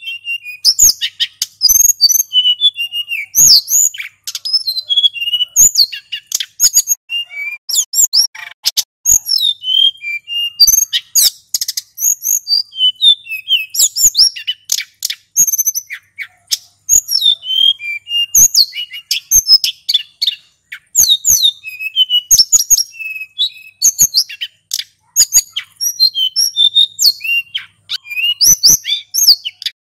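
Male sulingan gunung songbird singing a rapid, unbroken run of high chirps, whistled slurs and trills.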